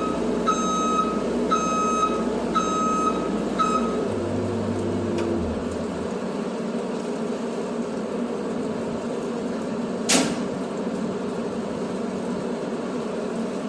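Truck reversing alarm beeping about once a second over a running truck engine; the beeping stops about four seconds in and the engine keeps running. A single short, sharp burst of noise comes about ten seconds in.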